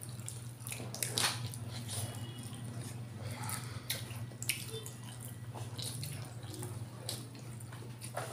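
Close-up eating sounds of people chewing rice and chicken liver afritada taken by hand, with scattered mouth clicks and smacks over a steady low hum.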